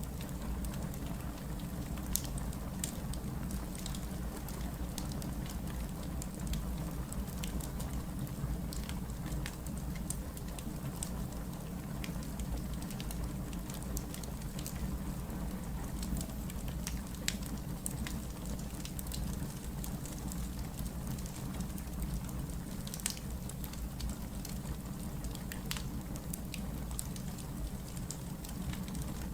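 Burning firewood crackling, with scattered sharp pops and snaps over a steady low rumble of the flames.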